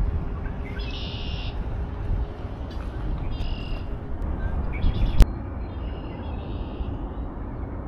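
A songbird calling four times in short, high calls over a steady low rumble, with a single sharp click about five seconds in.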